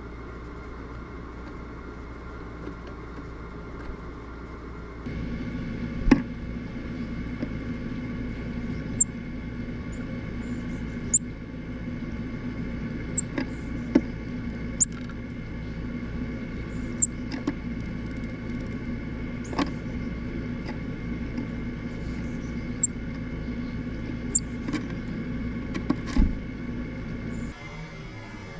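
Small birds in a plastic in-window feeder: irregular sharp taps and clicks, some with a brief high tick, over a steady low room hum.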